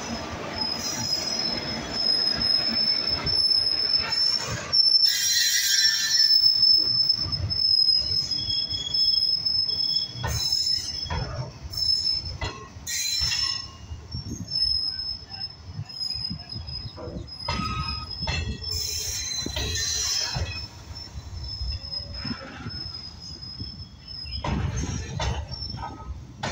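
Freight train rolling past at close range, its steel wheels giving a steady high-pitched squeal on the rails, with repeated sharp knocks and a low rumble from the wagons' running gear.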